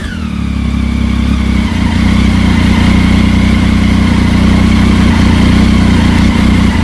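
Motorcycle engine dropping from a rev to a steady idle right at the start, then idling evenly.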